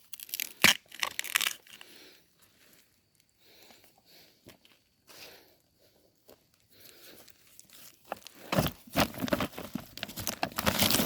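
Irregular crackling and tearing of dry plant material being handled or broken. It comes in bursts: loud in the first second or so, faint and sparse in the middle, then dense and loud over the last few seconds.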